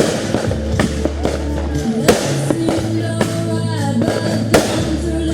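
Music with sustained bass notes and a melody, over which fireworks bang sharply three times: at the start, about two seconds in and near the end.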